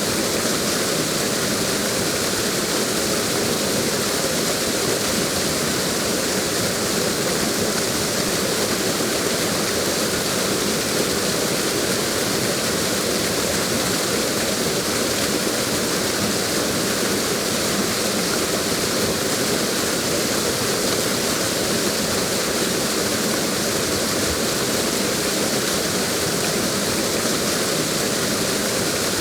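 Waterfall: a steady, even rush of falling water with no change over time.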